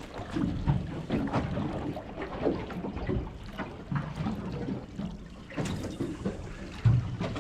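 Water lapping and sloshing against the hull of a small fishing boat, with scattered small knocks.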